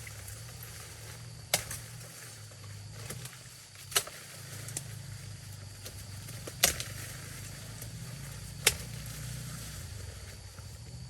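Four sharp knocks, spaced about two to two and a half seconds apart, over a low steady hum.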